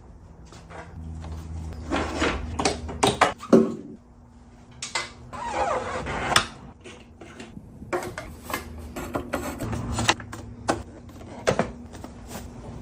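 Irregular clinks, knocks and rattles of tools and parts being handled during work on a motorcycle, with a steady low hum underneath.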